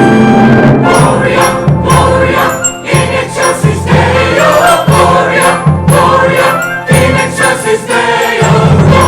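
Choir and orchestra performing a Christmas song. About a second in, the held chords give way to a brisk rhythm with a steady bass pulse and jingle bells.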